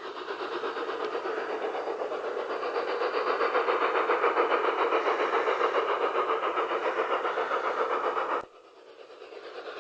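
LGB G-scale model locomotive's onboard sound unit playing a steady, evenly pulsing steam chuff as the loco runs. The sound swells over the first few seconds, cuts out abruptly about eight and a half seconds in, then builds back up.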